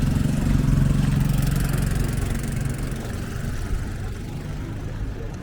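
A motor vehicle's engine running close by, loudest in the first two or three seconds and then fading away.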